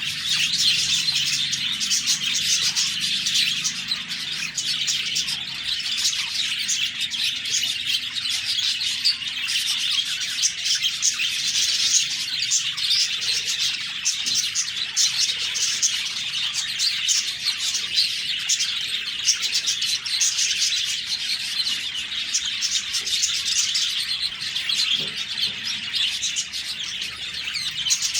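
Budgerigars (budgies) chirping and warbling in a continuous flock chatter of quick, high, overlapping chirps.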